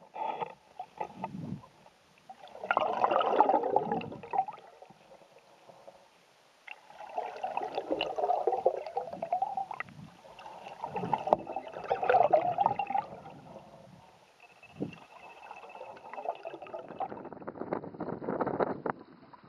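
Canoe paddle strokes in lake water: a swirl and gurgle of water with each pull, coming about every four to five seconds.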